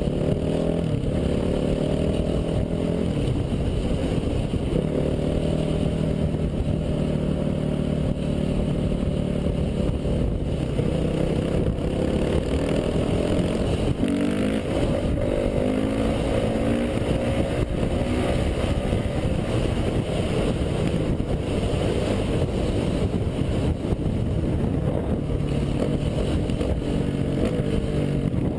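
Dirt bike engine running hard, its pitch repeatedly rising and falling as it revs up and shifts through the gears, over a constant low rumble.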